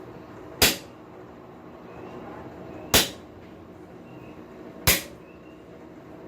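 Three hammer blows on a blacksmith's hand tool set against the steel on the anvil, about two seconds apart, each with a short metallic ring, over a steady background hum.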